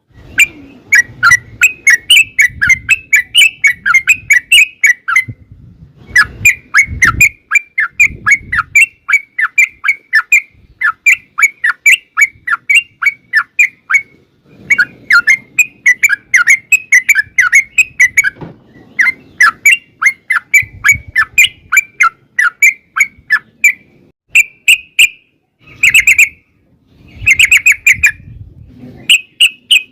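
Yellow-vented bulbul (trucukan) singing its long rapid 'ropel' song: quick bubbly notes, about four a second, strung into phrases of several seconds with short pauses between them.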